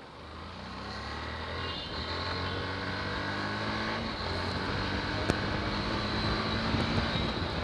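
Yamaha FZ motorcycle's single-cylinder engine running while riding in traffic, growing gradually louder, with road and wind noise.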